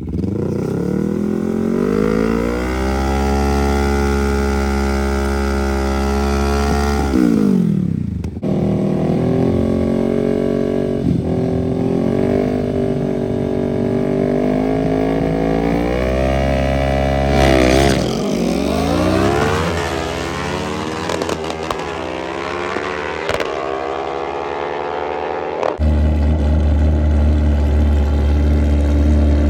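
Small mini bike engines run hard during a drag race pass. The engine note climbs over the first few seconds and holds high, drops away about seven seconds in, then rises and falls again several times before settling into a steady low drone near the end.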